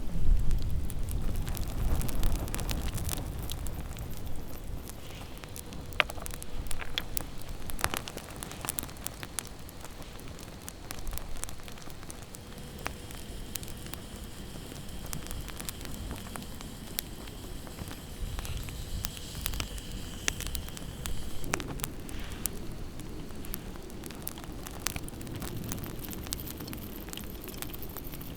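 Wood campfire burning and crackling, with frequent sharp pops and snaps. A heavier low rustling runs through the first few seconds.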